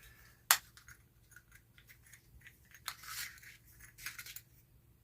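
Clicks and scrapes of an old flashlight's head and lens being handled and worked at by hand: one sharp click about half a second in, then light ticks and two short scrapes.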